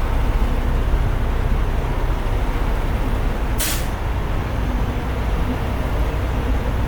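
Diesel semi-truck engines idling at a truck-stop fuel island, a steady low rumble. About three and a half seconds in, a short sharp hiss of released air is heard, like a truck's air brakes.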